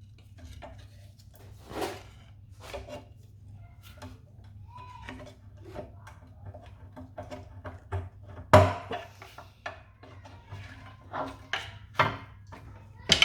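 Irregular clinks, knocks and scrapes of hand tools and metal parts as the rocker cover is unbolted from a Toyota 2AZ-FE engine, with one louder knock about two-thirds of the way through. A faint steady hum runs underneath.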